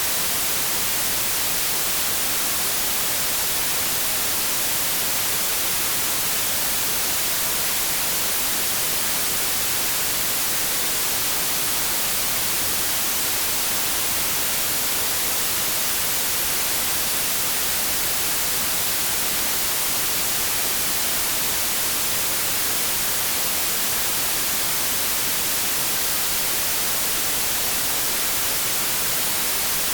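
Steady synthetic white noise: a constant, even hiss strongest in the high pitches, unchanging.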